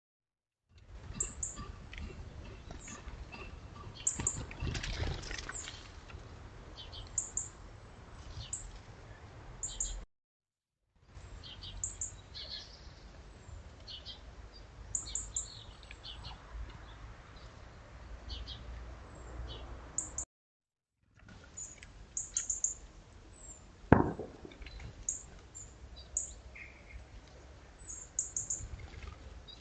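Small garden birds chirping in short, high calls over a low background rumble, with one sharp knock about 24 seconds in. The sound drops out briefly twice.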